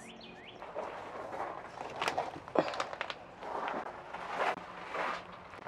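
Footsteps with scattered rustles and sharp knocks, heard while seedlings are being carried out of the greenhouse.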